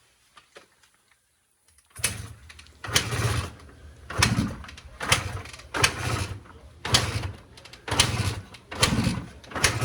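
A 2003 Honda CR250's single-cylinder two-stroke engine being kick-started over and over on choke, about one kick a second, starting about two seconds in. It is a hard start after years of sitting, with a carburettor that the rider says needs cleaning out.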